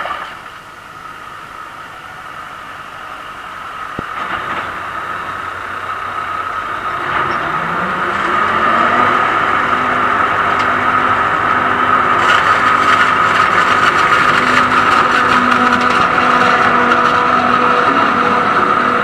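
Diesel engine of a large farm machine working at silage harvest, growing steadily louder over the first half with a steady high whine. Its engine note rises in pitch about seven seconds in, then it runs loud and even.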